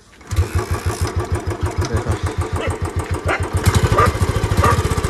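Royal Enfield Bullet 350's single-cylinder four-stroke engine starting and running at a steady, evenly pulsing thump through its C-bend pipe and stock silencer. It gets a little louder about three and a half seconds in.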